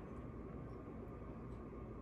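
Steady low room hum with a few faint, soft mouth clicks from chewing a soft biscuit with the mouth closed.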